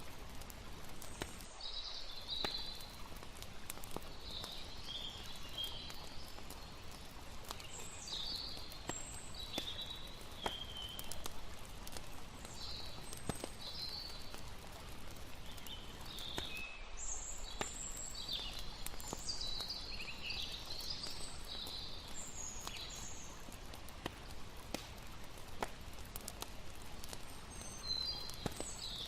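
Layered night nature ambience: a steady hiss of river water, scattered sharp campfire crackles, and bursts of high chirping calls.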